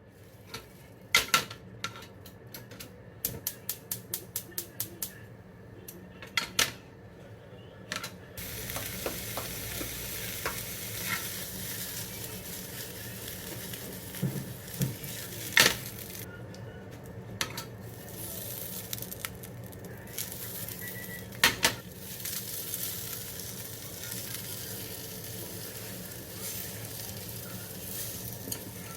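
A quick run of even clicks, then from about eight seconds in a steady sizzle of chorizo frying in a pan, with scattered clinks and scrapes of a utensil against the pan.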